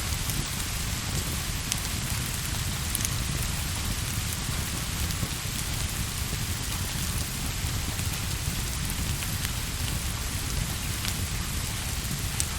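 Steady rain with a low rumble beneath it and a few scattered sharp ticks.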